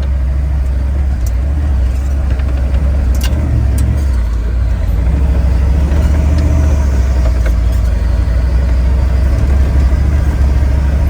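7.3-litre IDI turbo diesel V8 of a 1973 Ford F250 running at low revs while the truck crawls through deep snow, heard from inside the cab as a steady low drone.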